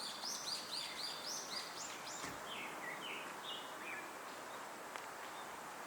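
A songbird singing a quick run of short, high, downward-slurred notes, about four a second, dropping lower in pitch near the middle and ending about four seconds in, over a steady outdoor background hiss.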